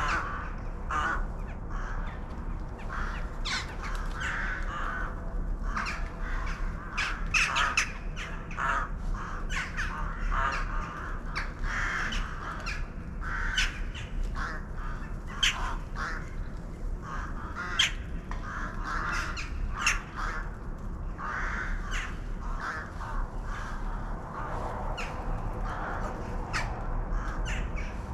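A flock of birds calling continuously, many calls overlapping in a dense, steady chatter.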